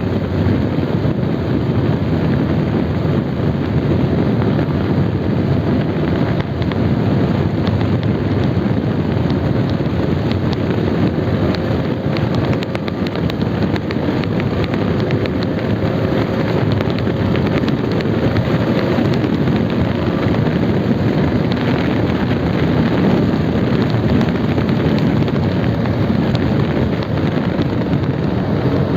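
Motorcycle riding at highway speed: wind rushing over the rider's microphone, loud and steady, over the engine running.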